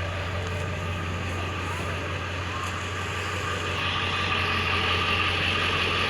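Ford F350 Super Duty's 7.3-litre Power Stroke turbodiesel V8 idling steadily, heard at the exhaust.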